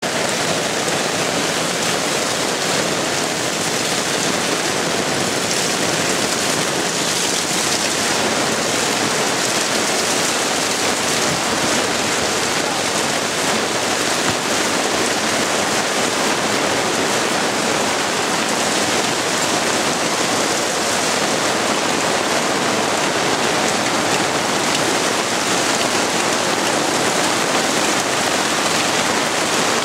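Steady heavy rain falling, a dense even hiss of raindrops on surfaces.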